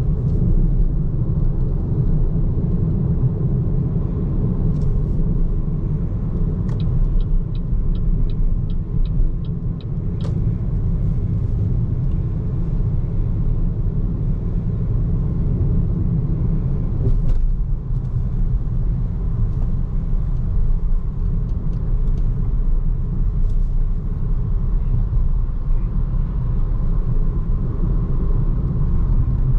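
Steady low rumble of tyre and road noise from a BYD Seagull electric car on the move, with no engine sound. A short run of quick, even ticks comes about seven seconds in.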